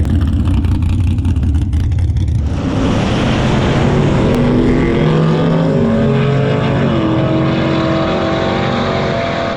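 Drag race car's engine rumbling low, then launching and running hard down the strip, its pitch climbing in steps as it pulls through the gears.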